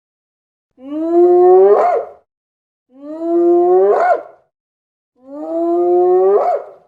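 An animal's drawn-out call, repeated three times about every two seconds. Each call holds a steady, slowly rising pitch and ends with a quick upward flick.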